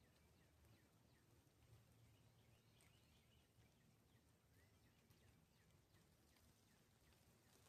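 Very faint rain-shower ambience: a soft, even patter with scattered drip ticks. Short rising chirps from small animals repeat about twice a second throughout.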